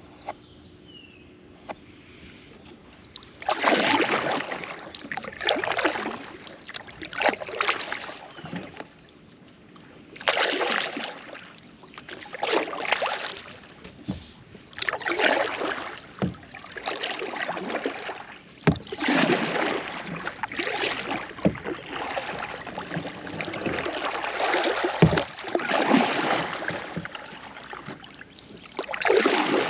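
Kayak paddle strokes in the water, a swishing splash about every one and a half to two seconds, starting about three seconds in. A couple of sharp knocks are heard among the strokes.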